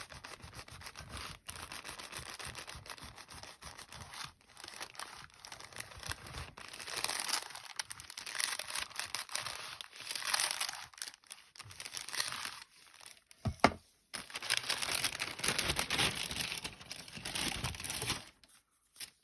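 Hot household iron pressed and slid over baking parchment, the paper rustling and crinkling in uneven swells as it fuses a decoupage napkin layer down, with one sharp knock a little past halfway.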